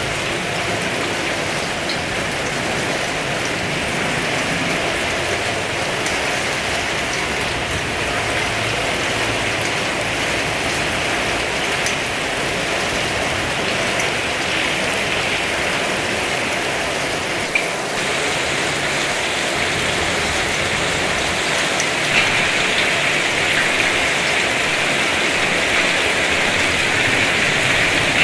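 Heavy rain falling steadily, a dense downpour hiss with a couple of sharp drip ticks, growing slightly louder in the last few seconds.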